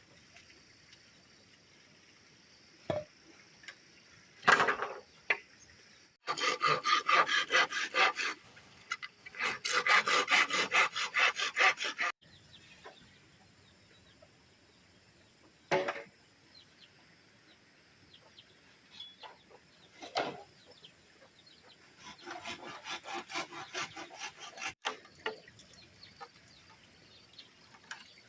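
Hand tool working wood or bamboo in quick rhythmic back-and-forth strokes, in three bouts, with a few single knocks between them.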